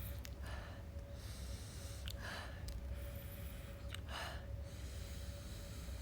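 A person breathing: three short puffs of breath about two seconds apart, with a few faint clicks, over a low steady hum.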